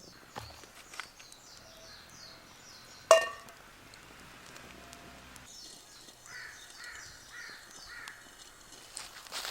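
A single sharp metallic clink about three seconds in, ringing briefly with several tones, over repeated series of quick high-pitched bird chirps.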